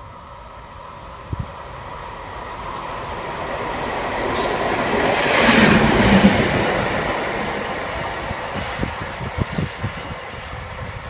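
A train passing by: the rail noise builds to its loudest about six seconds in, then fades away.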